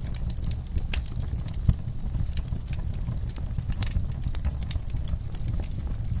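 Wood fire burning in a fireplace: a steady low rumble of flames with irregular crackles and pops, the loudest pop about a second and a half in.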